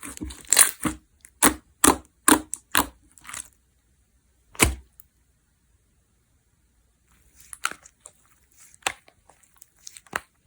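Clear jiggly water-jelly slime being squeezed and pressed by hand, giving a quick run of sharp, wet pops and crackles. After a lone pop and a pause of about two seconds, fainter pops come again near the end.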